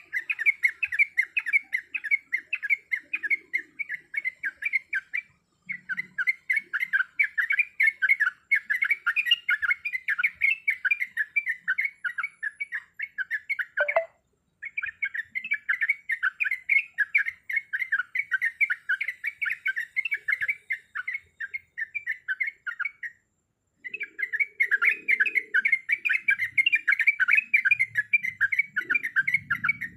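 Yellow-vented bulbul (trucuk) singing: fast, chattering runs of rapidly repeated notes, broken by three short pauses.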